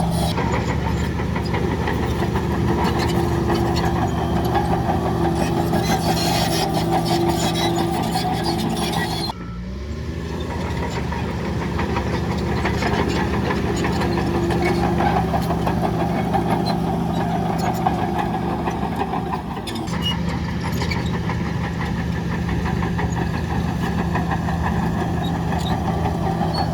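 Heavy diesel engine of earthmoving machinery running steadily at constant speed. The sound breaks off abruptly about nine seconds in and resumes with a short rise in pitch, then shifts again near twenty seconds.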